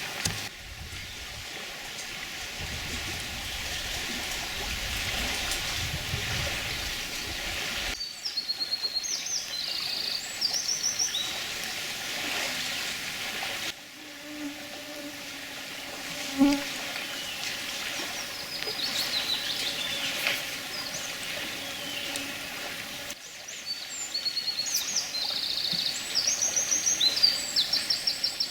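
Songbirds singing over a steady outdoor hiss, in rapid high trilled phrases heard twice. The background changes suddenly three times, as between separate recordings.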